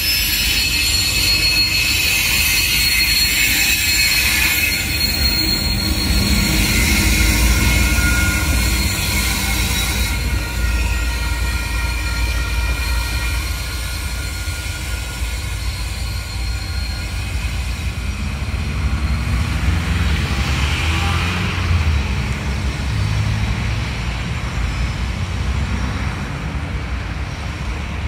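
Loaded cement hopper wagons rolling along the track, with a thin high-pitched wheel squeal over a low rumble for roughly the first ten seconds. After that, the low diesel hum of the trailing TR-class locomotive takes over as the train draws away.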